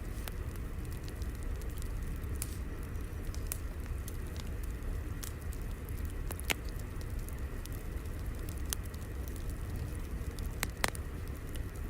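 Crackling fire: a steady low rumble with scattered sharp pops, two louder ones about halfway and near the end.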